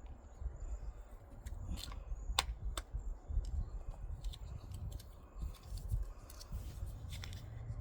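Garden ambience: a steady low rumble with a faint, steady high insect trill, likely crickets. Scattered small sharp clicks and rustles come from hands handling things close to the microphone, mostly about two seconds in and again later on.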